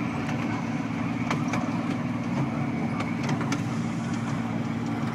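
Mini train running steadily: a constant engine hum with light clicks and rattles from the ride.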